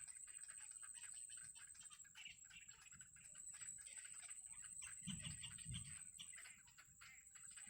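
Faint, rapid high chirping of nestling birds in the nest. A steady high whine runs underneath, and there are low thumps about five seconds in.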